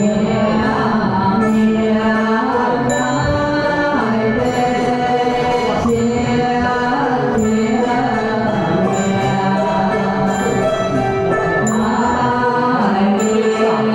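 Buddhist chanting in long held notes over instrumental music, with small bell-like strikes recurring about every second or so.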